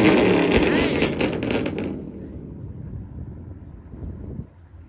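A car's engine and exhaust, loud with sharp crackles for about two seconds, then fading to a faint low rumble as it moves off.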